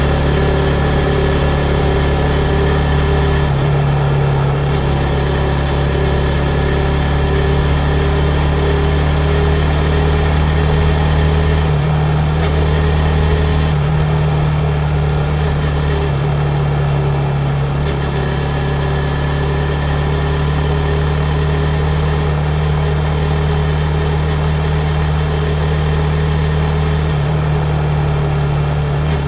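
2019 Yamaha MT-15's single-cylinder engine running steadily at low revs, its pitch shifting slightly a few times.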